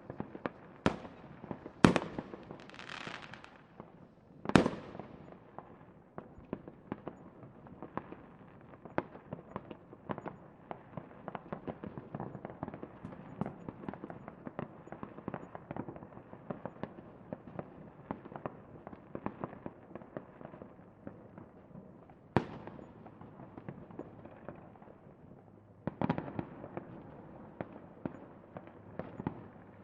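Fireworks going off: a steady stream of crackling pops, with a few louder sharp bangs about two and four and a half seconds in and again past twenty seconds, and a thicker burst of crackling near the end.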